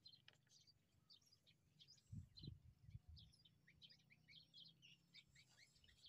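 Faint chirping of small birds: many short, high chirps scattered throughout, with a couple of soft low thumps about two seconds in.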